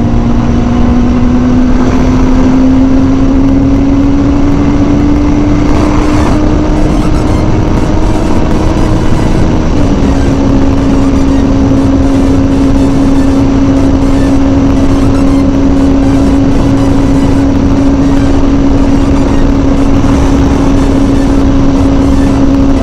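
Kawasaki ZZR600 inline-four running at highway speed. Its note dips right at the start, climbs slowly as the bike accelerates, then holds steady for the second half, over constant wind rush.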